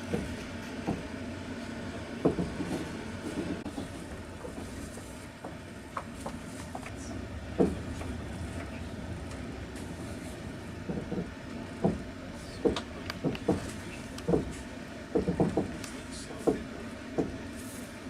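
Passenger train heard from inside the carriage: a steady rolling rumble with irregular sharp clacks of the wheels over rail joints, coming thicker in the second half.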